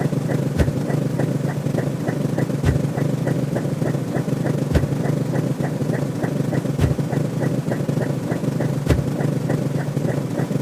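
A looping synthetic sound effect: a steady low rumbling drone with quick regular ticks, about three to four a second, and a sharper click about every two seconds.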